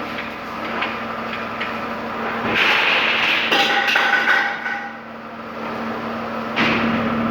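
A car engine idling steadily, with occasional knocks and clatter on top and a louder noisy stretch in the middle.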